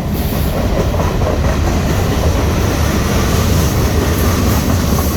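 Union Pacific mixed freight train rolling past: a steady, loud rumble of wheels on rail with clickety-clack from the freight cars.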